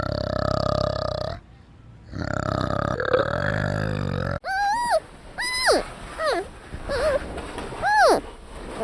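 Animal calls: two long, low, buzzing grunts, then after a sudden cut a series of about seven short honking calls that each rise and fall in pitch.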